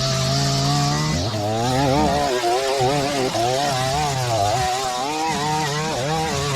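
Small two-stroke line trimmer (whipper snipper) running, its engine speed rising and falling as the throttle is worked.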